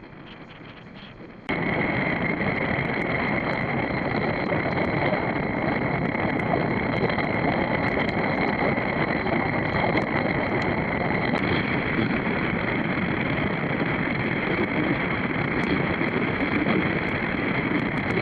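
Honda CB500X motorcycle riding at road speed: steady wind rushing over the microphone mixed with engine and road noise, with a few steady high tones over it. It starts suddenly about a second and a half in.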